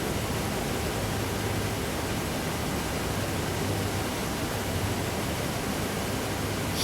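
Steady, even rushing noise with no distinct events, and a short click at the very end.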